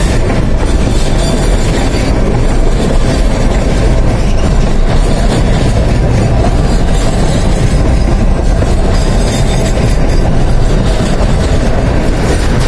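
Freight train rolling past, a loud, steady rumble of wheels on the rails.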